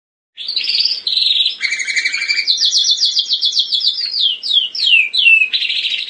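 Domestic canary singing: a continuous high-pitched song of rapid trills, ending in a run of falling notes.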